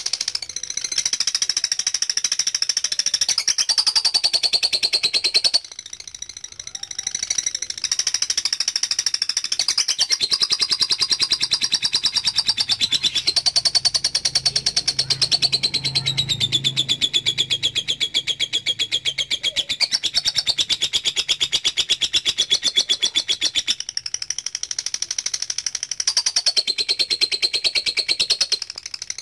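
Lovebird singing a long ngekek: a rapid, unbroken, high-pitched chattering trill, with brief breaks about six seconds in and again near the end.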